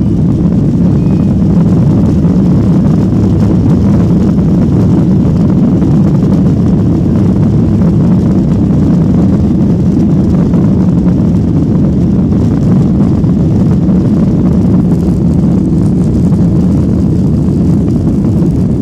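Boeing 737-800's CFM56 jet engines running, a loud, steady low rumble with no marked rise or fall.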